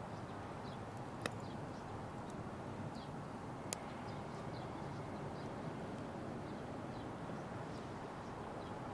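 Wood fire burning in a Petromax Atago fire pit, a steady rushing with two sharp crackling pops, the first a little over a second in and the second near four seconds in.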